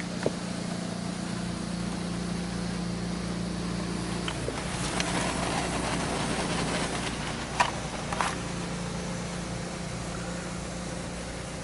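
PDQ ProTouch Tandem car-wash machinery heard from inside the car: a steady hum with a low tone under an even hiss. A couple of brief knocks come about seven and a half to eight seconds in.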